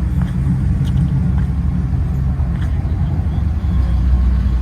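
Steady low rumble of car engines as cars roll in and idle.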